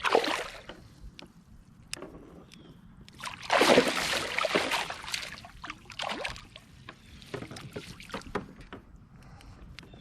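Water splashing and sloshing close by, loudest in a two-second stretch about three and a half seconds in, with scattered sharp knocks and clicks of handling around a boat.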